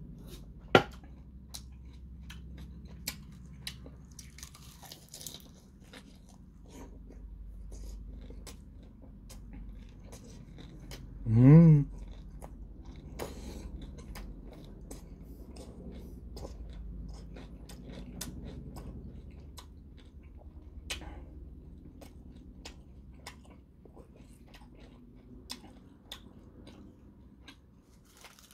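Close-miked chewing and biting of a mouthful of pork and rice wrapped in gim (dried seaweed), with many small mouth clicks. There is a sharp click about a second in, and a short voiced hum rising in pitch about eleven seconds in.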